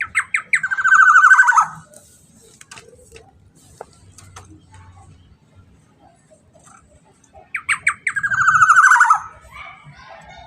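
Black-naped oriole (kepodang) calling twice, about seven seconds apart: each call is a few quick sharp notes running into a harsh, slightly falling, buzzy phrase about a second long.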